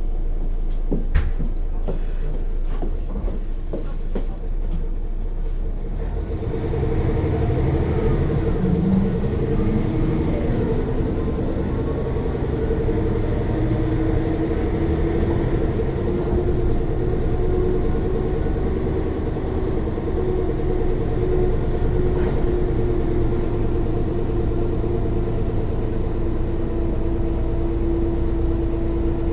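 Mercedes-Benz O 405 N1 city bus heard from inside the cabin: its six-cylinder diesel ticks over quietly at first with a few clicks, then about six seconds in it pulls away under load and settles into a steady cruise. Under the loud engine runs a steady whine from the rear-axle gearing.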